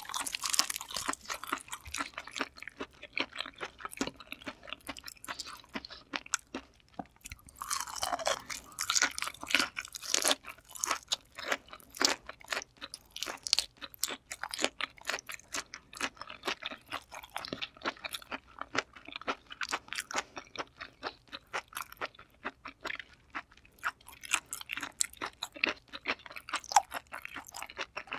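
Close-miked ASMR chewing and crunching of raw kuruma prawn, a dense run of quick mouth clicks, with a short falling sound about eight seconds in.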